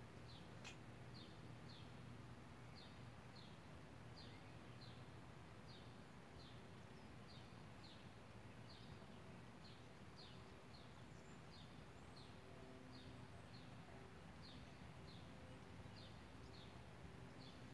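A small bird chirping faintly and steadily: short high notes, mostly in pairs, repeated over and over, over a low steady background hum.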